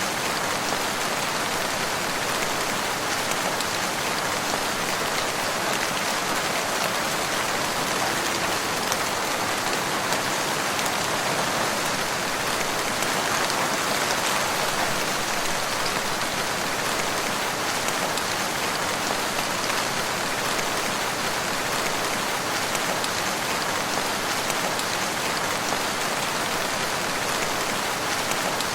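Steady rain falling in woodland, an even dense patter with no thunder.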